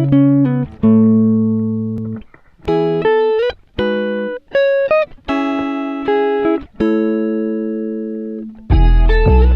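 Acoustic guitar music: slow chords and single plucked notes, each left to ring and fade, a couple of them sliding up in pitch. Near the end a fuller passage with a deep bass comes in.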